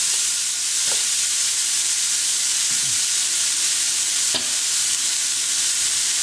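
Diced beetroot sizzling as it stir-fries in a pan, a steady high hiss, turned with a silicone spatula at first. Two faint clicks, about a second in and just past four seconds.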